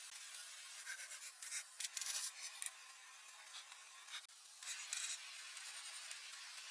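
Scratchy rubbing or scraping in irregular strokes over a steady hiss, loudest about two seconds in and again around five seconds in.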